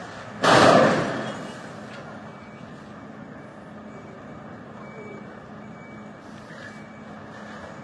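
A loud, sudden noise about half a second in that fades over about a second, then a vehicle engine running steadily with a low hum.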